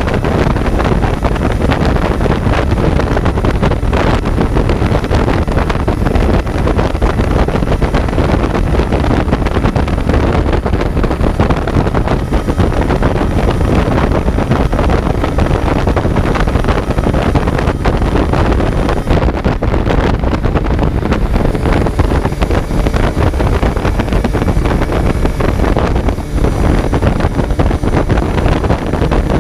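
Kawasaki Z900 inline-four motorcycle engine running under way, heavily buried in wind rush and buffeting on the microphone, with a brief dip in level near the end.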